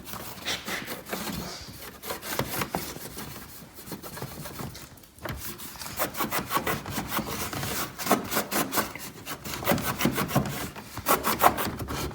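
A damp microfibre E-cloth rubbed hard back and forth over a car's surface. The rubbing settles into quick, even scrubbing strokes, about five a second, about halfway in.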